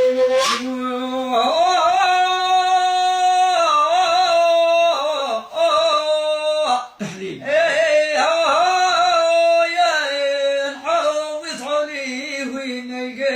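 A man singing a Bedouin-style song in long held notes with ornamented turns and glides, the phrases breaking off twice midway.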